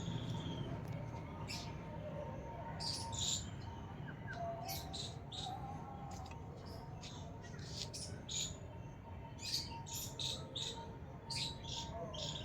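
Small birds chirping: many short, high calls in quick, irregular clusters, over a low steady background rumble.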